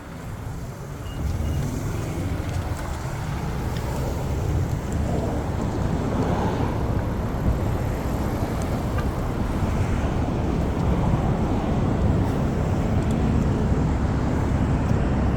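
Steady low rumble of road traffic with wind buffeting the microphone, growing louder about a second in.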